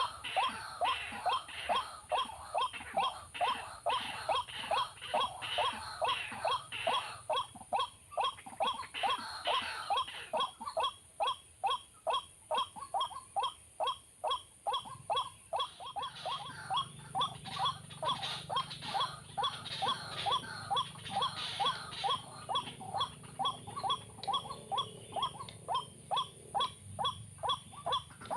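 White-breasted waterhen calls, a short note repeated evenly about two to three times a second without a break, the call used to lure the birds to a snare. A low hum joins about halfway through.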